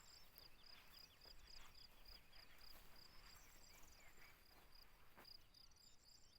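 Several wild birds singing faintly, short varied chirps and trills, over a high, even chirp repeating about four times a second.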